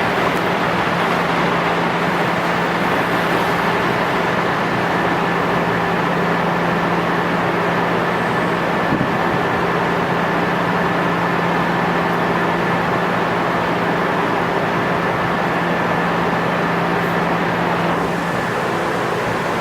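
JNR 103 series electric train running at a steady pace: a continuous rumble with a constant low hum and a thin high whine. The low hum fades out near the end.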